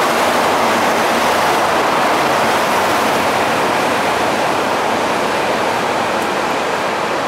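MTR electric train running along the track, a steady rushing noise of wheels on rail.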